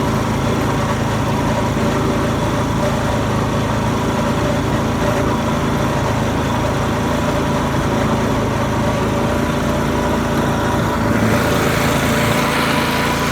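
Garden tractor's small engine running steadily, with a hiss joining in near the end.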